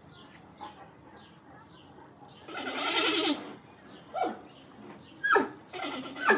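An animal calling: one long call about two and a half seconds in, then three short calls that fall sharply in pitch, over faint background chirping.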